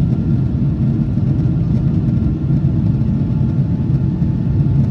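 Steady low cabin rumble of a Boeing 777-200ER's jet engines and airflow, heard from a window seat by the wing, with a faint steady whine above it.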